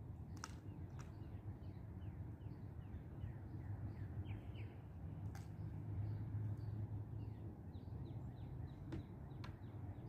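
Several birds chirping with many short, repeated falling calls over a low, steady background rumble, with a few sharp clicks.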